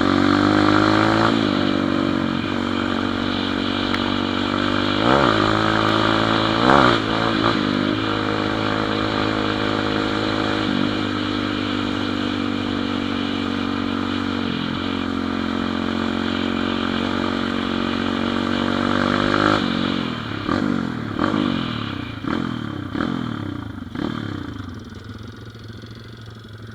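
Pit bike engine running at a steady speed under way, with a couple of quick drops and recoveries in pitch in the first half. About two-thirds of the way through the revs fall away, and the engine then rises and falls several times as it slows, getting quieter.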